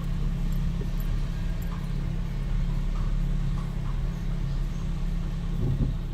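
Car engine running at low speed, heard from inside the cabin as a steady low hum.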